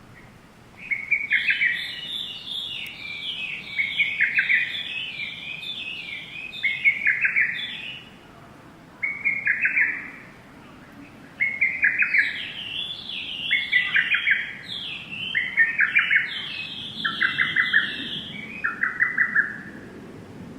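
Bird chirping in bursts of quick, repeated notes, several falling in pitch, each run lasting about one to three seconds with short pauses between.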